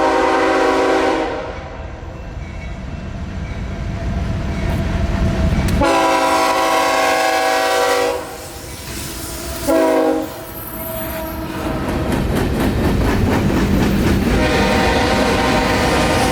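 CSX freight train's locomotive horn sounding a chord in separate blasts: one ending about a second in, a long one around six seconds in, a short one around ten seconds in, and another long one starting near the end. Between the blasts the train rumbles past with wheels clicking over the rail joints.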